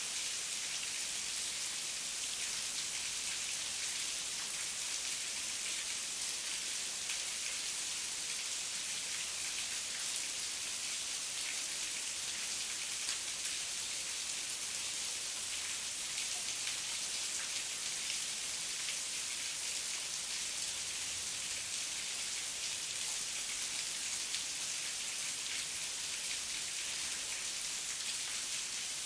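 Heavy rain falling steadily: a dense, even hiss with many fine drop ticks, no thunder.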